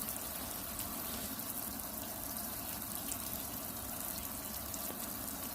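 Water from a shower spraying steadily, falling like rain into a small water-filled play pool.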